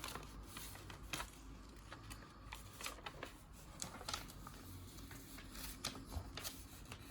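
A sheet of paper being folded and creased by hand into a paper airplane: scattered short, crisp rustles as the folds are pressed down.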